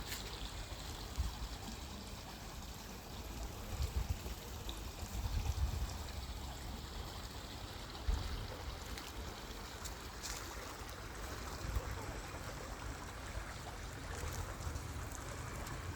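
A small river's water running steadily, with uneven bursts of low rumble on the microphone.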